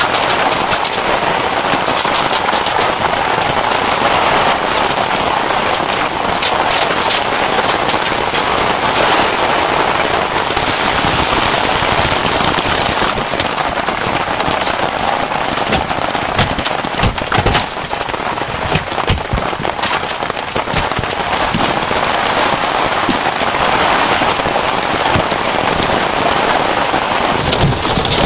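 Heavy rain falling steadily, with many sharp individual drop hits.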